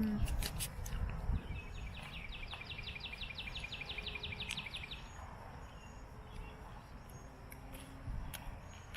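A bird's high, rapid trill of about seven notes a second lasts some three seconds, over steady background noise. A few sharp clicks come in the first second and a half.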